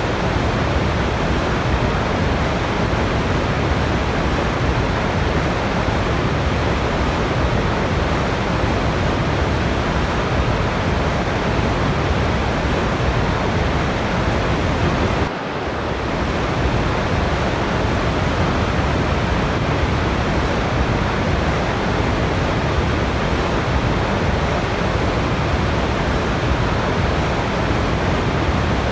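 Steady rushing of a waterfall, an even wall of water noise. About halfway through it dips briefly and swells back.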